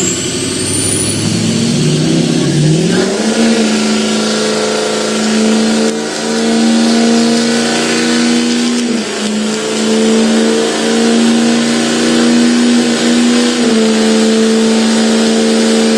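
A 2003 Ford Excursion doing a burnout. The engine revs up over the first few seconds and is then held at high revs, dipping briefly a few times, while its tyres spin with a steady hiss.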